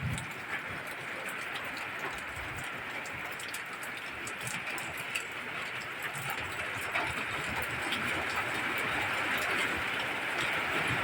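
Steady rain falling, an even hiss with scattered sharp drop ticks, growing slightly louder toward the end.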